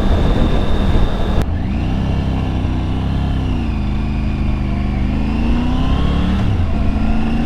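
Motorcycle engine running under way with wind noise. There is an abrupt cut about a second and a half in; after it the engine pitch rises, dips briefly, then climbs steadily as the bike accelerates.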